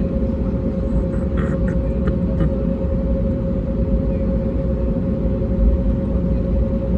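Airbus A320neo cabin noise in flight: a steady low engine and airflow rumble with a constant mid-pitched engine tone. A few faint clicks come between about one and two and a half seconds in.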